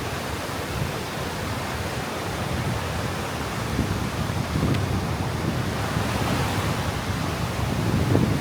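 Sea surf washing onto a sandy beach, a steady hiss that swells a little about six seconds in, with some wind rumble on the microphone.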